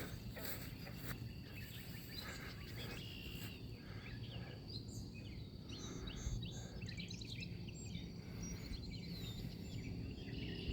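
Small birds chirping and calling in quick, short notes, busiest in the second half, over a steady low background rumble.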